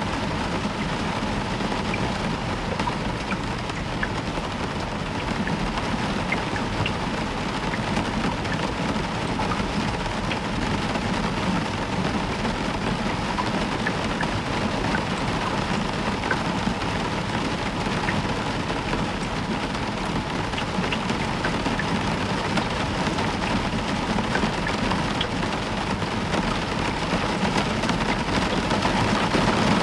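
Heavy rain falling steadily on a roof, individual drops ticking through the hiss, over a low rumble of soft thunder.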